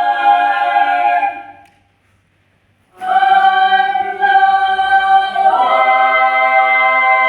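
Voices singing a cappella in harmony, holding long sustained chords. A held chord dies away about a second and a half in, there is a brief pause, then a new chord begins that moves to another chord about halfway through.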